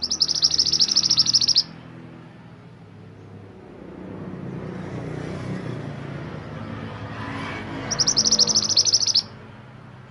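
Mantenan gunung songbird singing two quick, high-pitched twittering bursts of rapidly repeated chirp notes, one at the start and one about eight seconds in, each lasting about a second and a half. A low rumble swells and fades between them.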